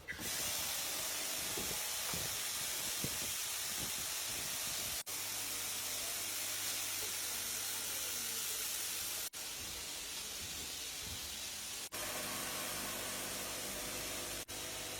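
Steady hissing machine noise of a factory floor, with a low hum in parts, broken by several brief dropouts where the clips are cut together.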